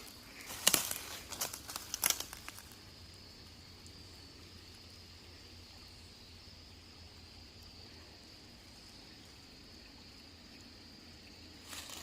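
Crinkling and crunching for the first two or three seconds, then a steady high drone of insects over a faint hiss.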